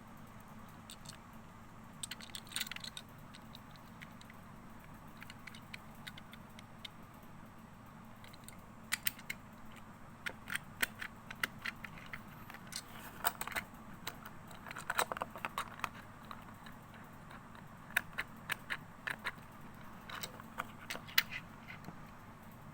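A small die-cast toy car and its packaging being handled, with scattered sharp clicks and light rattles that come thick and fast through the middle and later part, over a steady low hum.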